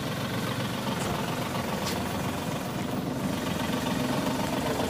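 Small car's engine idling steadily.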